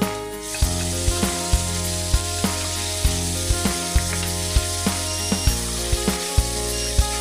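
Fried beef slices hitting a hot stainless frying pan and sizzling, the sizzle swelling about half a second in, then stirred with a spatula.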